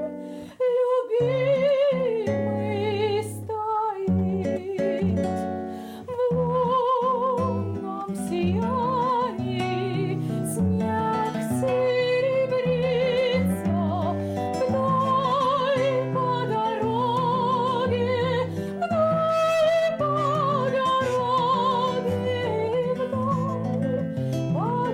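A woman singing a slow song with wide vibrato, accompanied by acoustic guitar. There is a brief pause just after the start.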